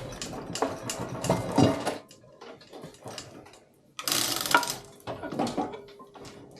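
Hand work with metal tools on a diesel cylinder head: dense clicking and scraping for about two seconds, a lull, then a louder burst of metal clatter about four seconds in and a shorter one after it.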